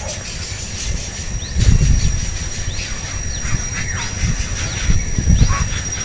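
Short, thin bird chirps, several scattered through, over a steady high-pitched whine, with two louder low rumbles, about a second and a half in and again near the end.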